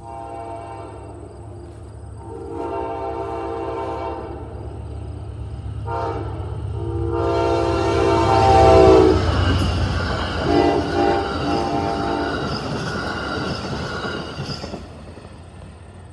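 Amtrak GE Genesis diesel locomotive sounding its horn for a grade crossing, in long and short blasts with a brief last one, then passing close by with engine rumble and wheel-on-rail noise. It is loudest about nine seconds in and fades near the end.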